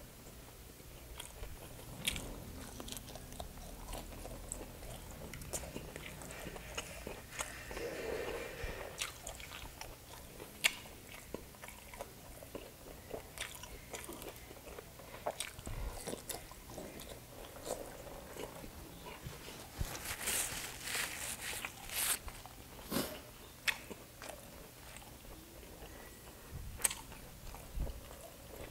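Close-up mouth sounds of a man biting and chewing grilled street food dripping with vinegar: wet smacks and clicks, with a denser, crunchier stretch about twenty seconds in.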